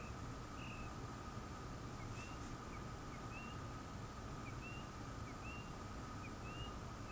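Quiet room tone with a steady faint high whine under it, and a small bird chirping short rising notes, about two a second.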